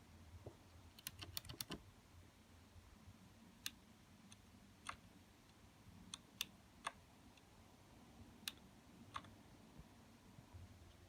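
Mechanical keyboard keys pressed one at a time: a quick run of about five clicks a second in, then scattered single clicks every second or so.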